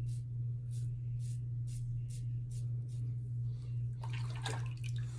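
Short strokes of a safety razor with a Gillette Super Thin blade scraping through stubble, about two a second: the blade feedback of a close pass. About four seconds in there is a brief, louder splash of water, over a steady low hum.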